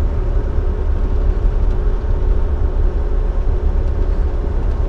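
Dump truck's diesel engine and tyres heard from inside the cab while cruising on the highway: a steady low rumble with a faint even hum over it.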